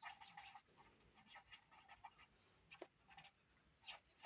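Faint pen strokes on paper while drawing in ink: a run of short strokes with brief gaps between them.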